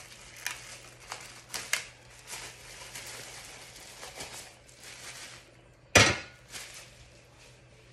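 Tumbler turner kit parts and packaging being handled: scattered light knocks and clinks, a stretch of rustling, and one loud knock about six seconds in, over a faint steady hum.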